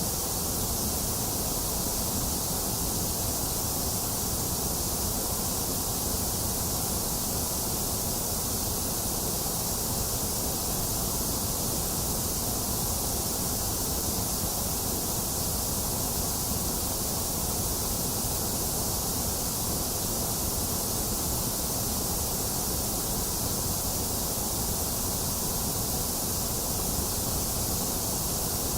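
Box fan running steadily together with steady rain: an even, unchanging noise with a low rumble and a high hiss.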